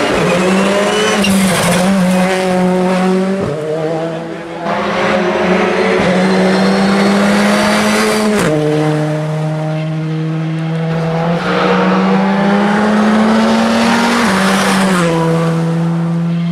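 Rally car engine running hard at high revs, its pitch creeping up and then dropping at gear changes about eight and a half seconds in and again near the end.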